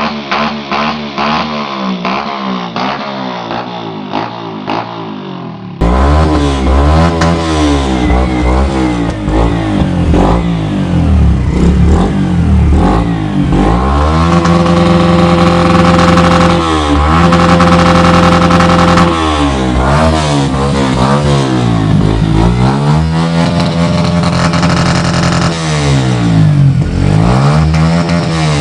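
Small motorcycle engines revved hard. For the first six seconds one engine runs with a fast, even stutter. After a cut, another engine is revved again and again, its pitch climbing and dropping, and is held at the rev limiter for several seconds in the middle.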